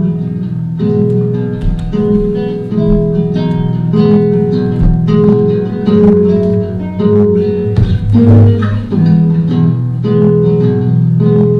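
Live music on a plucked string instrument, likely an acoustic guitar: a recurring high held note over lower picked notes, with quick strummed chords and a louder, rougher strum about eight seconds in.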